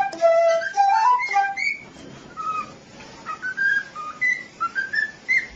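A string of short whistled notes that step up and down like a little tune, with a gap of quieter notes in the middle.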